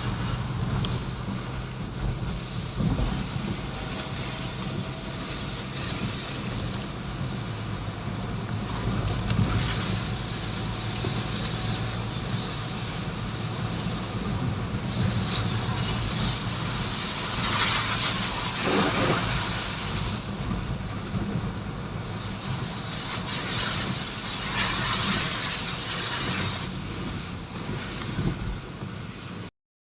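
A vehicle running steadily, a low engine hum under road and wind noise on the microphone. The sound cuts out for a moment near the end.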